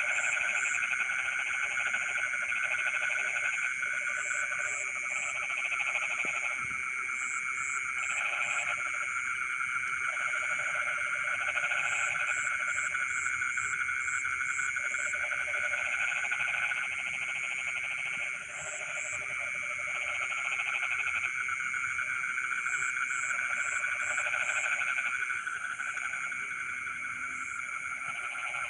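Frog chorus in a rice paddy: many frogs trilling continuously and overlapping, with lower calls starting and stopping every second or two and short high chirps in groups of three to five.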